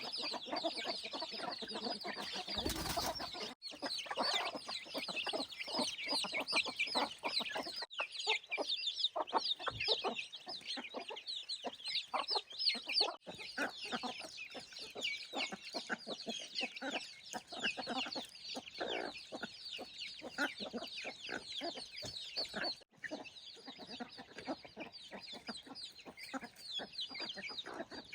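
Chickens clucking, with many quick, high, falling chirps going on throughout. There is a brief burst of noise about three seconds in.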